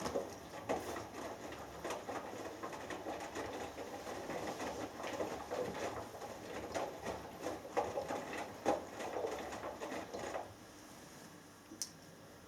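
Washing machine drum turning during the wash, with wet laundry tumbling and water sloshing in irregular splashes and thuds. It starts suddenly and stops after about ten seconds, the usual tumble-and-pause of a wash phase, and a single click follows near the end.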